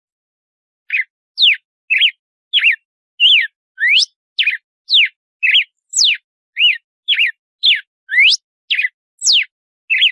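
Red-cowled cardinal (galo-de-campina) singing its 'açoite' song: a quick run of clear whistled notes, about two a second, some sweeping sharply upward and some sliding down, starting about a second in.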